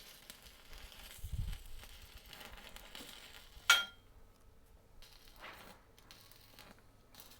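A single sharp metallic clink with a brief ring, a little past the middle, after a dull low thump about one and a half seconds in. Faint scattered crackle runs beneath.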